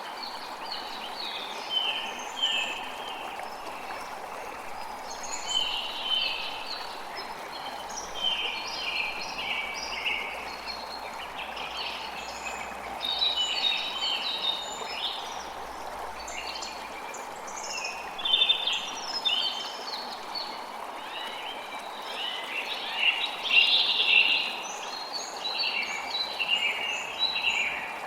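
A creek running steadily, with many birds chirping and singing over it in quick short notes that come thicker in the middle and near the end.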